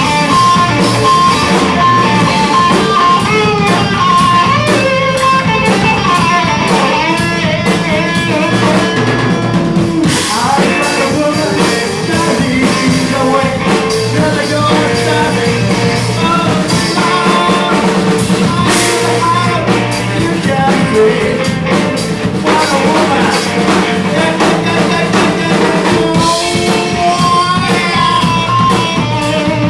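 Live blues-rock band playing an instrumental passage: guitar lines over drum kit and bass.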